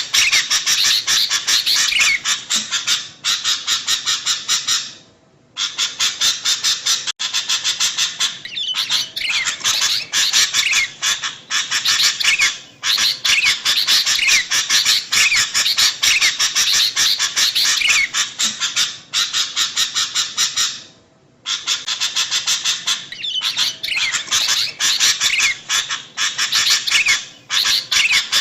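Sooty-headed bulbuls giving rapid, busy chattering calls, many short notes in quick succession with hardly a break. There are brief pauses about five seconds in and again about twenty-one seconds in. It is a lure recording of the kind used to call bulbuls in.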